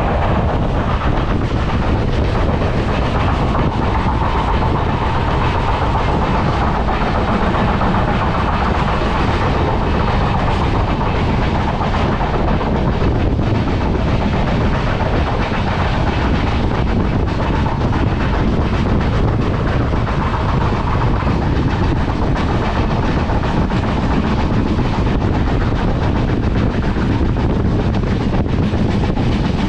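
Konkan Kanya Express passenger train running along the track, heard from aboard: a steady, loud rumble of wheels on rails.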